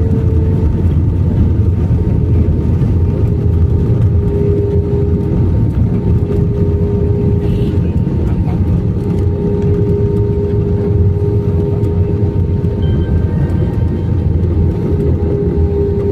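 Airliner cabin noise in flight: the engines' steady roar of air and drone, with a steady hum running under it.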